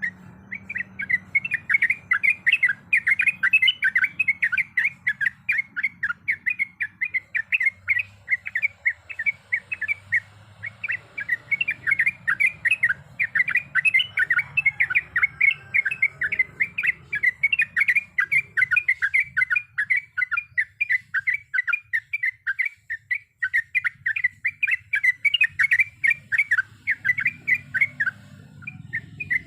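Sooty-headed bulbul (trucukan) singing a long, unbroken run of rapid, sharp chirping notes, about three to four a second, kept up without a pause.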